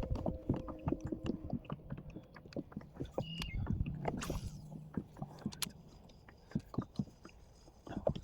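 Irregular small clicks and knocks of fishing gear being handled aboard a plastic kayak, with a brief hiss about four seconds in.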